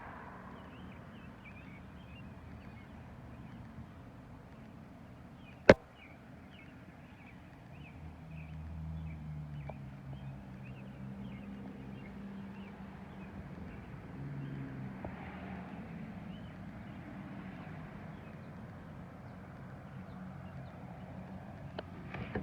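Outdoor garden ambience after rain: many faint, short high chirps keep repeating over a low background hum that swells from about eight seconds in, and a single sharp click sounds about six seconds in.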